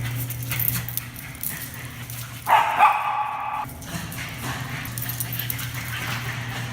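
Bichon Frise barking excitedly: a loud run of barks about two and a half seconds in, lasting about a second, over a steady low hum.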